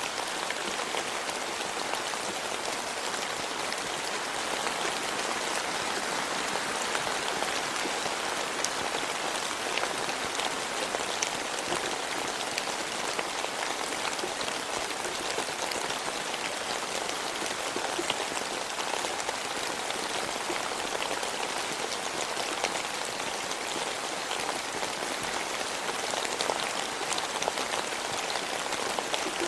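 Steady rain falling, a dense even hiss of drops with many small pattering ticks.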